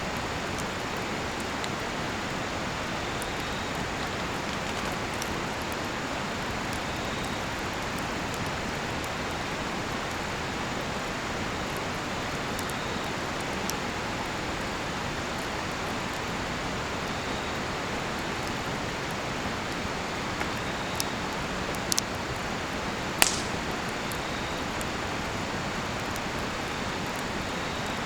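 Steady rushing of a river, with a cedar-wood campfire giving a few small ticks and two sharp pops about three-quarters of the way through. Faint cricket chirps recur every few seconds.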